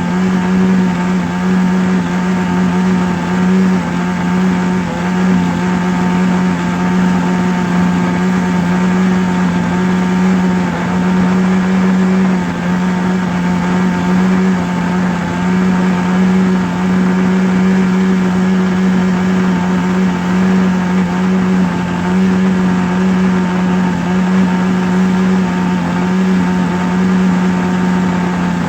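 A steady, unchanging motor hum with one strong low pitch and a buzz of overtones above it.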